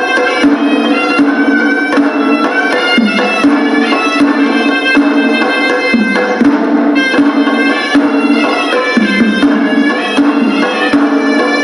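Hewisi ensemble playing: a horanewa (Sri Lankan shawm) sounds a wavering, ornamented reedy melody over a steady low held tone, with quick drum strokes running through it.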